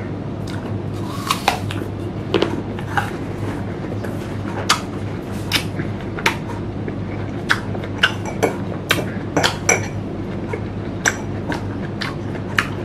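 Eating raw green mango close to a clip-on mic: irregular crisp crunches and clicks as the hard, unripe flesh is bitten and chewed, with light clinks of a metal fork, over a steady low hum.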